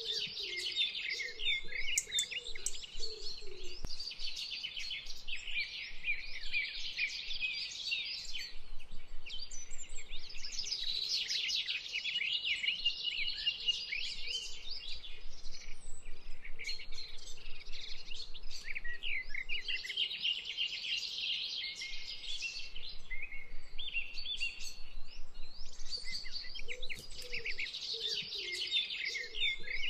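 Many small birds chirping and singing at once, a dense chorus of overlapping high calls and trills that never stops.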